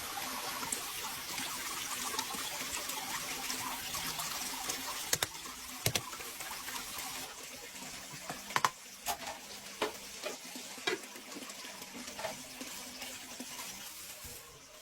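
Running water, a steady hiss that eases off after about seven seconds, with several sharp knocks in the middle.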